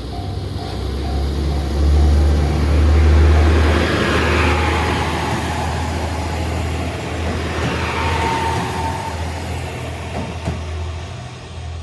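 A Japanese level-crossing bell ringing at an even beat while a single-car diesel railcar passes over the crossing. The railcar's deep engine drone and wheel noise peak a few seconds in, then slowly fade. The bell is drowned out while the train passes and is heard again near the end.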